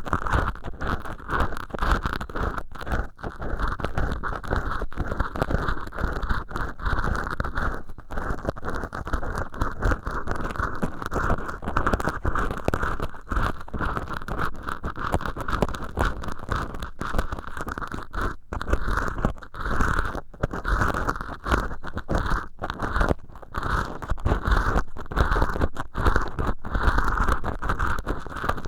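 An earpick scraping and rubbing inside an ear hole made of acrylic scrubbing sponge set in a silicone ear, close up: continuous fast scratchy, crackly strokes with brief pauses.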